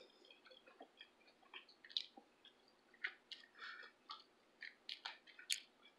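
Near silence with faint, scattered mouth clicks and soft chewing sounds from someone eating at close range.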